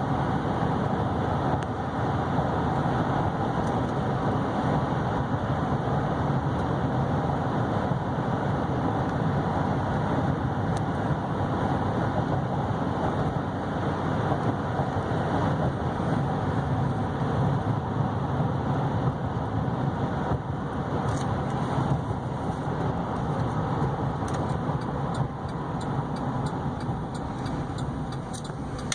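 Steady driving noise of a 2012 Chevy Silverado 3500HD Duramax diesel pickup cruising down the road: an even engine hum mixed with tyre and wind noise, heard from inside the cab.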